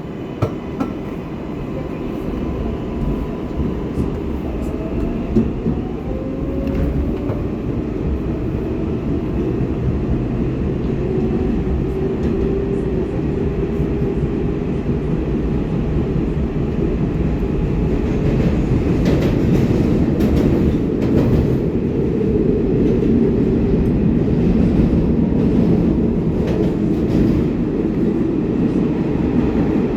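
R188 subway train on the 7 line running and picking up speed, a rising motor whine over wheel-and-rail rumble that grows steadily louder, with a few sharp clicks in the first seconds.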